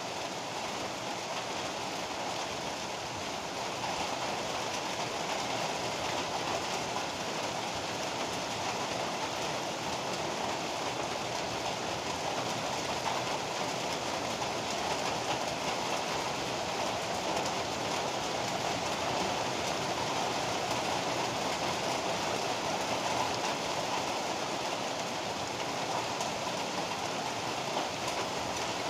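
Heavy rain pouring steadily in a dense, even hiss, swelling a little over the first few seconds.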